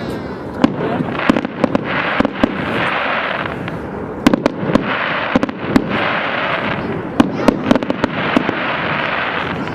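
New Year's fireworks going off: many sharp bangs and cracks in quick succession, with three spells of dense hissing crackle between them.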